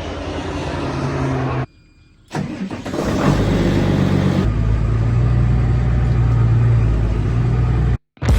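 A vehicle engine running steadily, cut off suddenly for about half a second near the two-second mark. It then comes back, builds up and runs steadily again until it cuts off abruptly just before the end.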